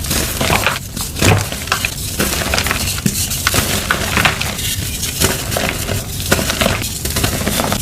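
Blocks of dyed gym chalk being crushed and crumbled, a steady run of crunchy, crisp crackling made of many small snaps and crumbles.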